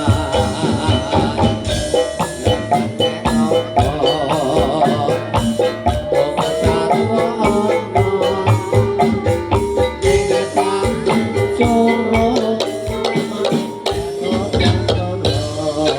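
Live jaranan dangdut music: a dense run of drum and percussion strikes under a pitched melody, going on steadily.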